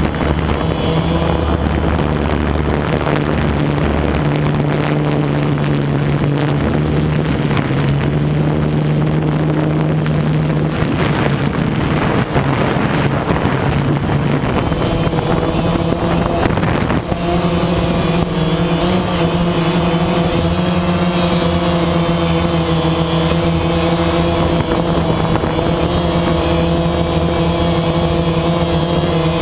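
A motor vehicle's engine running steadily over road and wind noise. A little over halfway through, the engine note changes to a slightly higher, steady pitch.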